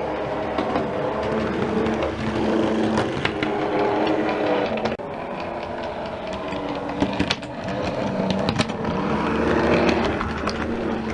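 Model train running along the track: a steady electric-motor hum with scattered sharp clicks of wheels over rail joints.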